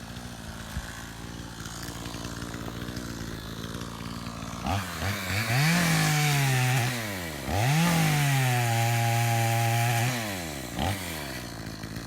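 Gas chainsaw idling, then revved up to full speed about four seconds in, dropping back and revving again, each run held for two to three seconds.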